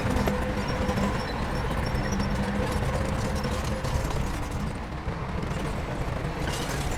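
Diesel engine of heavy earthmoving equipment running steadily with a low drone.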